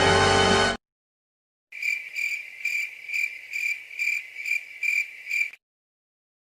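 Music cuts off abruptly under a second in. After a short silence, a cricket chirps steadily for about four seconds, a high, even chirp about twice a second.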